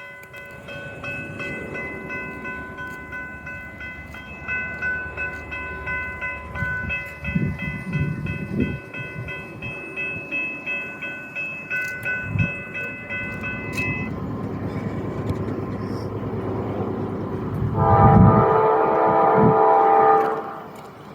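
Railroad crossing bell ringing in a steady repeating pattern while a train approaches with a growing rumble; the bell stops about two-thirds of the way through. Near the end the locomotive's horn sounds loudly for about two and a half seconds.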